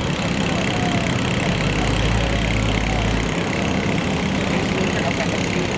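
A steady engine rumble runs throughout. A deeper low hum swells in about a second and a half in and drops away suddenly after about three seconds.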